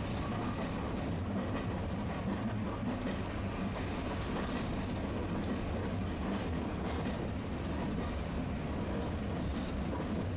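Tosaden streetcar running along its track, heard from inside the car: a steady low rumble of motor and wheels, with a few faint clicks from the wheels on the rails.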